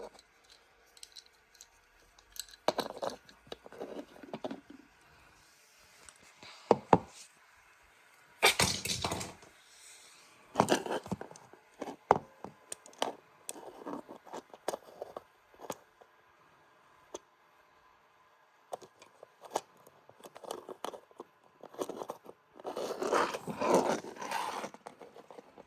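Irregular clicks and knocks with bursts of clattering, including a longer rustling clatter about nine seconds in and another near the end.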